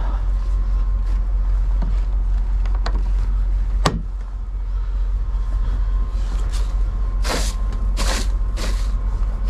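A semi-truck's diesel engine idling with a steady low rumble. A single sharp click comes about four seconds in, and a run of short swishing strokes, about one every 0.7 seconds, comes near the end.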